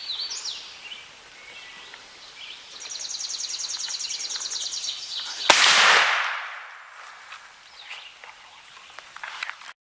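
Birds singing, including a rapid high trill, then a single shotgun shot about five and a half seconds in, ringing out and fading over about a second and a half. The sound cuts off abruptly near the end.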